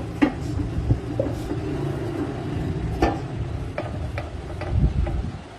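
A heavy engine running steadily with a low rumble, with sharp metallic clicks and knocks scattered through it, several coming close together a little after the middle.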